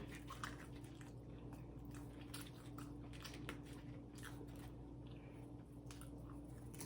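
A person chewing food with their mouth close to the microphone: faint, irregular wet chewing and mouth clicks. A steady low hum runs underneath.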